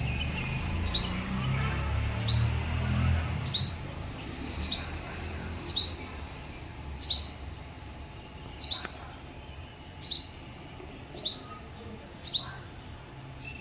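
Hummingbird giving a short, sharp, downward-sliding chip call over and over, about once every 1.2 seconds, some ten times. A low rumble underneath fades out after about three seconds.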